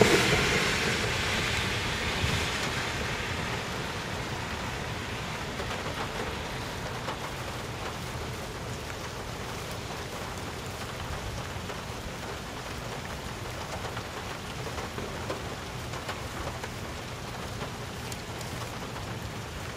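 Steady rain falling. Over the first few seconds the sound of a lone passing locomotive fades away.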